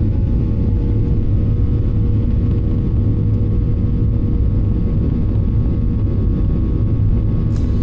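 Steady, loud low rumble of a Boeing 737's engines and airframe heard inside the passenger cabin, with a few sharp clicks or rattles near the end.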